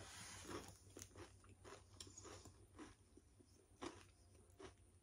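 Faint, irregular crunching of a person chewing Lay's potato crisps, a crackle every half second or so.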